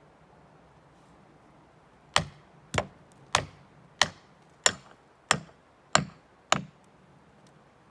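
Eight sharp strikes in a steady rhythm, about one every 0.6 seconds, starting about two seconds in.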